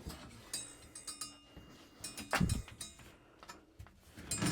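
Scattered light clinks and knocks from a car interior part being worked loose and handled, with a dull thump about two and a half seconds in and another near the end.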